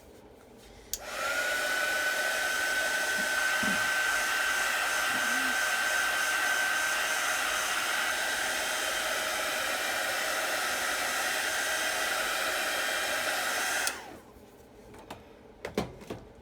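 Hand-held hair dryer switched on about a second in, running steadily with a constant whine over the rush of air, then switched off near the end. A few light knocks follow.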